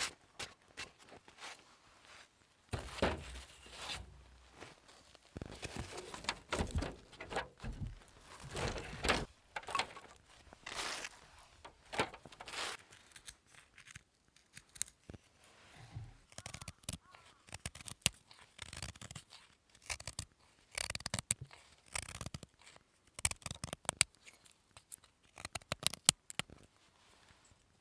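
Snow and ash being scraped and scooped out of a Picogrill 760 stainless-steel fire pit: irregular scraping, crunching strokes with many short clicks, clearing the fire bed while keeping the leftover charcoal.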